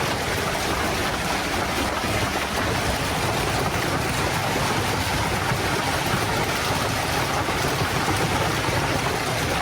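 Heavy thunderstorm rain and running water: a steady, even rush with no distinct strikes.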